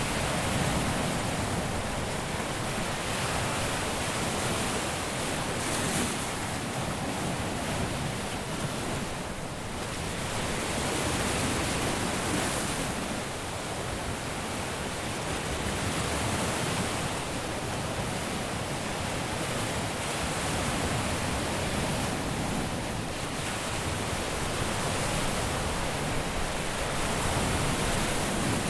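Caribbean sea waves breaking and washing on a beach, a steady rush of surf that swells and eases every few seconds.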